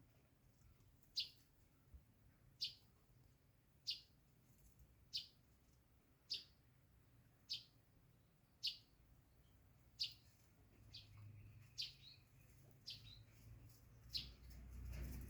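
A bird giving a short, high chirp over and over, about once every second and a quarter, about a dozen times; a low rumble rises near the end.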